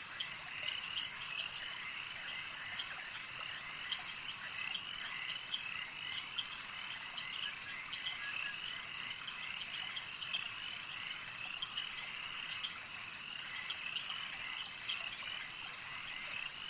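A chorus of many small frogs calling, a dense, continuous stream of short high-pitched chirps overlapping one another.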